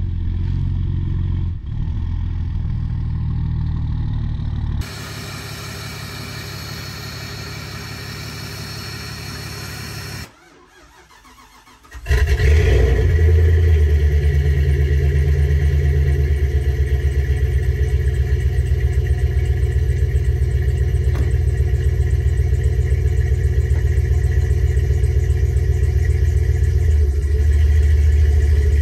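Low steady vehicle running sounds for the first ten seconds. Then, after a short quieter gap, a Jeep Grand Cherokee ZJ's 5.9-litre Magnum V8 starts suddenly and keeps running with an even, loping pulse, getting a little louder near the end.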